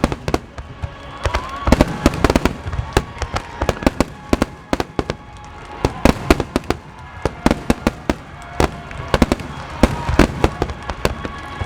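Large fireworks display: many shells bursting with sharp bangs and pops in quick, irregular succession. Music plays faintly underneath.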